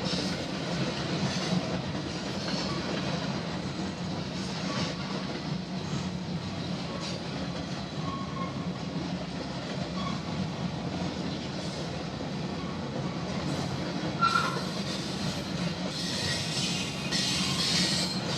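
Canadian Pacific freight train rolling past with a steady rumble of wheels on rail and brief, scattered screeches of wheel squeal. The sharpest squeal comes about fourteen seconds in, and the squealing grows more frequent near the end.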